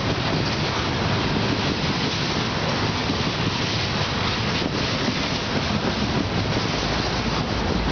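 Loaded coal hopper cars of a Union Pacific freight train rolling past steadily, wheels on rail, with wind noise on the microphone.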